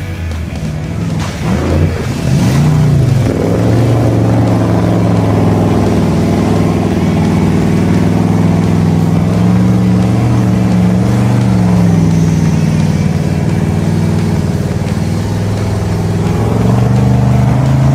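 An engine running and revving, its pitch sweeping around in the first few seconds, then holding mostly steady with small rises and dips.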